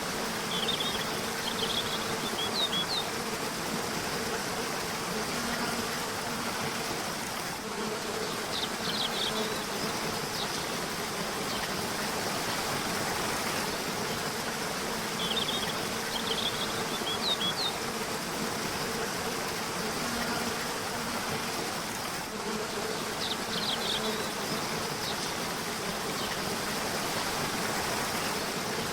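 Running water of a river or waterfall, a steady rush, with short bursts of high bird chirps coming back about every seven seconds. Under it runs a steady low buzz, like a hovering insect.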